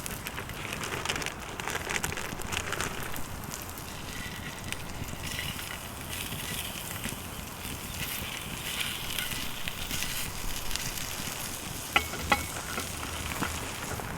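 Campfire crackling and hissing steadily, with two sharp snaps about twelve seconds in.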